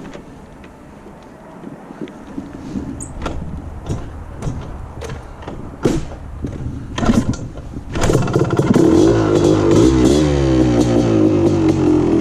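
Yamaha Tri-Z 250's two-stroke single-cylinder engine being kick-started: a series of knocks as the kickstarter is worked, then the engine catches about eight seconds in and runs, its revs wavering a little.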